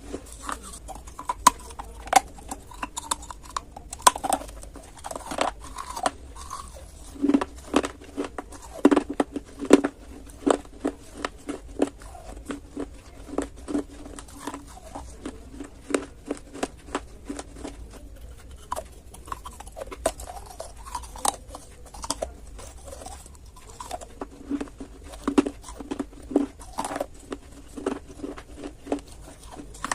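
Clay being bitten and chewed, a dense, irregular run of sharp crunches throughout.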